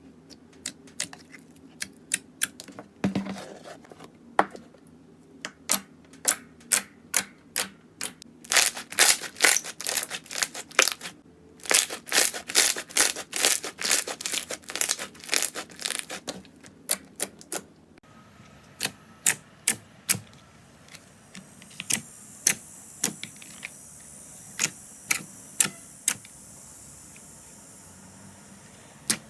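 Slime being handled, giving a series of sharp clicking pops in quick irregular runs. About two-thirds of the way through the sound changes, and the pops come sparser over a steady hiss.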